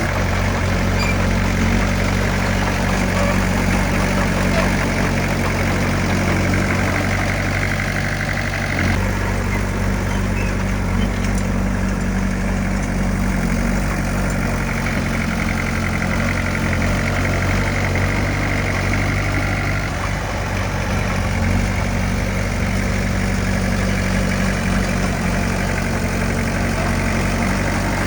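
Heavy earthmoving machine's diesel engine running steadily, its sound shifting about nine seconds in and again around twenty seconds.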